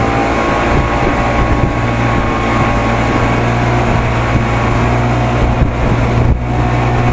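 Evinrude 55 hp two-stroke outboard motor running steadily with the boat under way at cruising speed.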